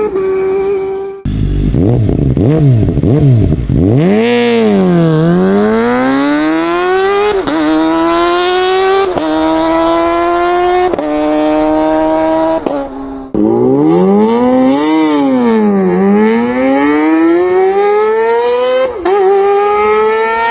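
Sport motorcycle engine accelerating hard through the gears, its pitch climbing and then dropping at each upshift about every two seconds. The sound jumps abruptly to a second run a little past halfway, where the revs dip, then climb again through more upshifts.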